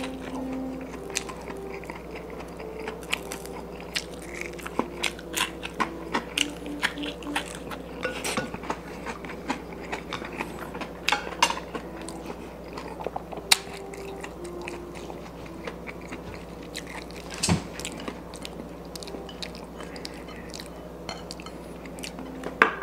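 A person chewing and biting on bone-in chicken adobo (leg and thigh) eaten by hand, with irregular smacking and crunching clicks.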